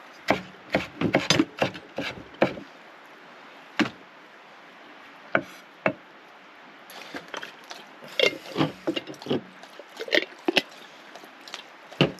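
Knife chopping vegetables on a cutting board: irregular runs of sharp taps, a quick flurry in the first couple of seconds, a few single taps, then another flurry from about seven to eleven seconds in.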